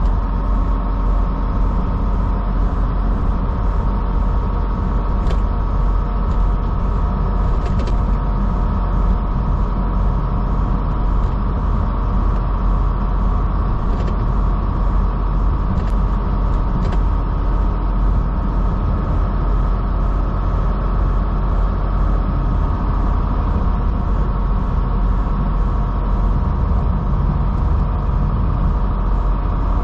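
Semi truck's diesel engine heard from inside the cab, running steadily with the engine (Jake) brake on while a fully loaded truck descends a steep grade, with a few faint clicks.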